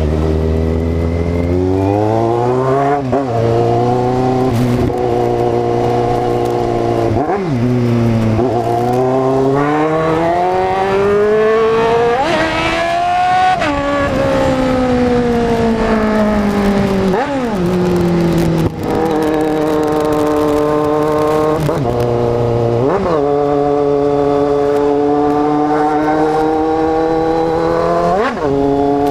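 Kawasaki Z750 inline-four motorcycle engine pulling hard up through the gears. The revs climb and then drop sharply at each of about five gear shifts, and there is one long slowing of the engine midway through.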